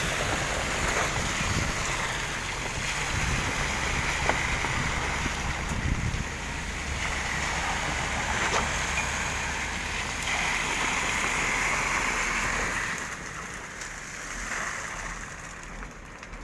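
Concrete pump running steadily during a floor pour, a constant low engine hum under a noisy rush, with a few sharp knocks. The hum drops away about thirteen seconds in.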